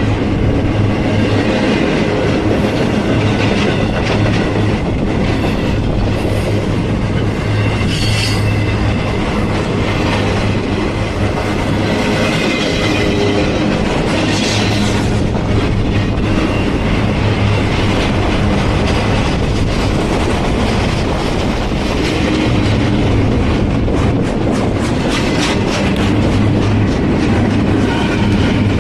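Train cars rolling steadily past, their wheels clattering over the rail joints, with brief high wheel squeals here and there and a run of quick clicks near the end.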